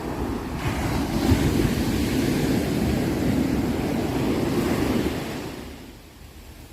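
Sea waves breaking and washing up on the shore: a surge of surf noise that builds over about a second, holds for about four seconds, then fades away.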